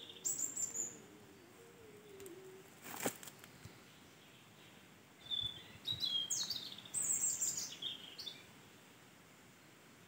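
Small songbird singing: quick runs of short, high, falling chirps, one brief burst at the start and a longer phrase from about five seconds in, with a single sharp click about three seconds in.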